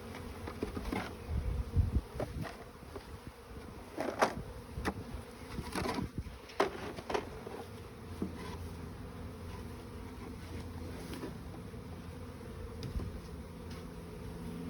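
A honeybee swarm buzzing steadily around a hive box, a mass of wingbeats making one continuous hum. A few sharp clicks and knocks stand out during the first several seconds, then the buzzing goes on alone.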